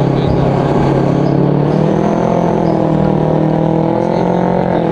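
A vehicle engine running steadily at low revs, its pitch drifting slightly up and down in the second half.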